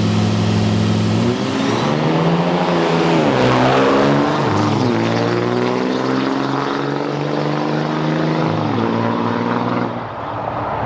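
Diesel drag trucks' engines making a drag run: steady at first, then rising in pitch about a second in, with two short dips like gear shifts around three and a half and five seconds in. They run on at high revs and fall away near the end.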